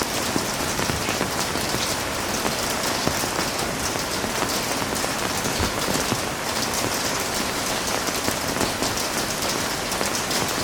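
Heavy rain falling steadily on hard surfaces, a dense hiss full of fine drop patter.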